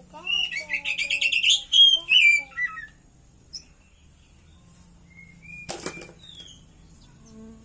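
Oriental magpie-robin (kacer) singing: a fast run of loud, warbled and trilled phrases with mimicked notes for the first three seconds, then a few single whistled notes. A brief flutter of wings comes about six seconds in.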